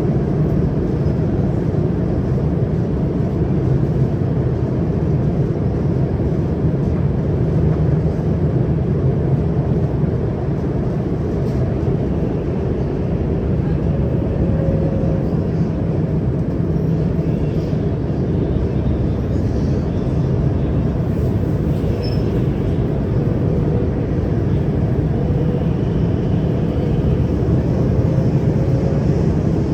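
CRRC Qingdao Sifang Type A electric metro train running at speed between stations, heard inside the carriage: a steady low rumble that holds even throughout.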